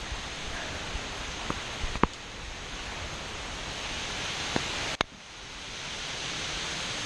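Heavy thunderstorm rain pouring down as a steady hiss, with a few scattered ticks of drops striking close by. The sound cuts out abruptly for an instant about five seconds in, then swells back up.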